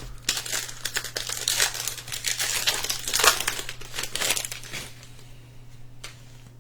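Trading-card pack wrapper being torn open and crinkled: a dense crackling for the first five seconds or so, dying down near the end.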